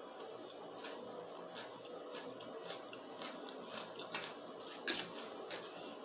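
Close-miked mouth sounds of someone eating spaghetti: soft wet chewing clicks about once or twice a second, with one sharper click about five seconds in.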